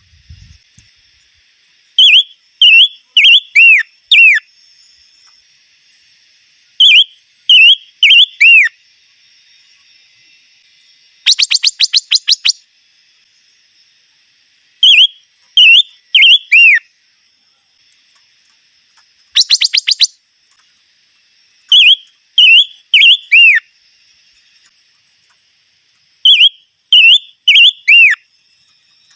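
Bird song of the 'chim ngũ sắc' (five-coloured bird): short phrases of four or five clear whistled notes, the last one sliding down in pitch, repeated every few seconds. Twice a rapid trill of about a second breaks in between the phrases.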